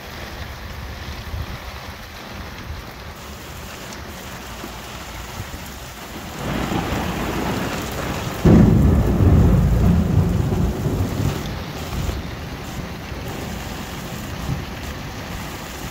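Heavy rain pouring steadily during a thunderstorm. About six seconds in, thunder swells, then breaks into a loud crack about eight and a half seconds in and rumbles away over the next few seconds.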